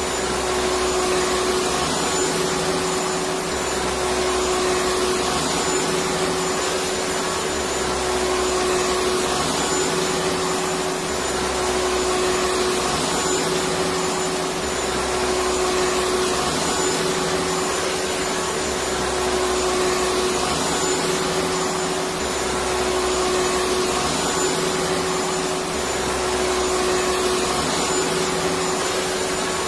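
Vacuum cleaner motor running steadily, a continuous whooshing whir with a constant hum, played as white noise to soothe a baby to sleep. A low undertone shifts back and forth about every two seconds.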